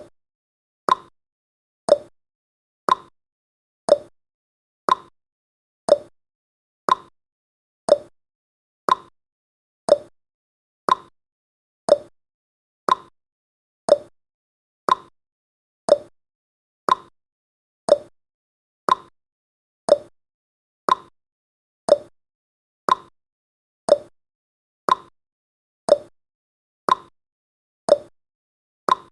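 Clock-style tick-tock sound effect of a countdown timer: one sharp tick each second, alternating between a higher and a lower tick.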